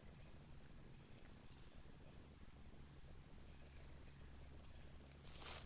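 Faint, steady, high-pitched trill of insects such as crickets, with a light pulse a couple of times a second, dropping away near the end.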